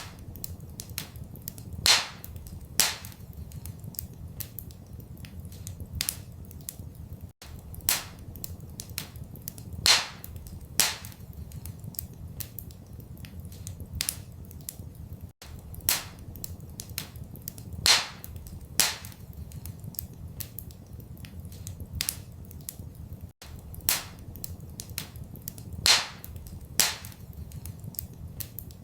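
Wood fire crackling in a fireplace: constant small snaps with a louder pair of pops about every eight seconds, over a low steady rumble. The same eight-second stretch repeats as a loop.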